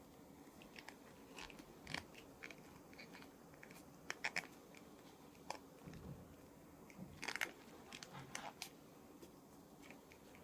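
Faint, scattered clicks and crinkles of plastic being handled, as from an action figure's packaging and parts, with small clusters of sharper clicks about four seconds in and again past seven seconds.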